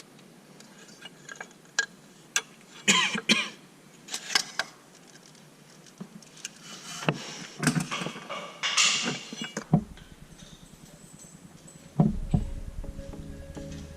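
Scattered metallic clinks and knocks of tools and steel parts being handled during work on a tractor's clutch linkage. Background music comes in near the end.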